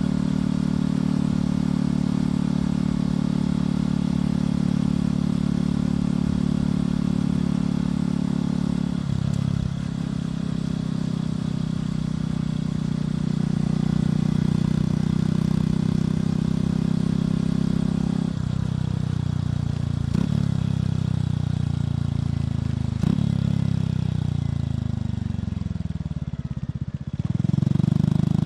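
Motorcycle engine and exhaust running under way at a steady pitch, stepping in pitch twice as the bike changes speed. Later a few sharp clicks, the pitch falls as the bike slows, and it rises again near the end.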